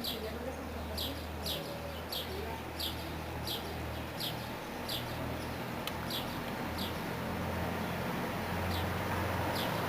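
A bird chirping over and over, one short falling chirp about every two-thirds of a second, with a brief pause near the end. Under it runs a steady low rumble, and a hiss that grows louder toward the end.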